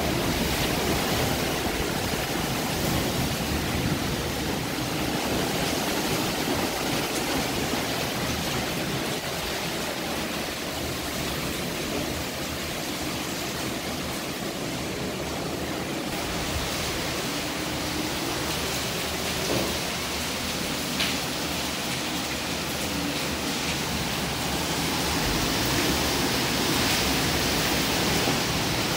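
Heavy rain pouring down: a steady rushing hiss, growing a little louder near the end.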